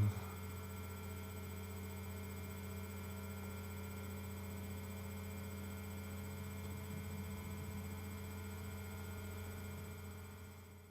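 Steady low electrical hum with fainter higher overtones, fading out near the end.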